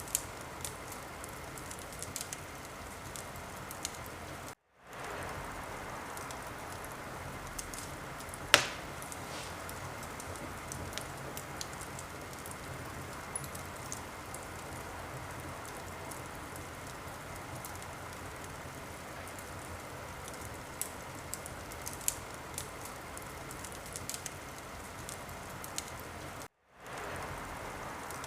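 Wood fire crackling: a steady hiss with scattered small pops and one loud pop about a third of the way in. The sound cuts out for a moment twice and fades back in.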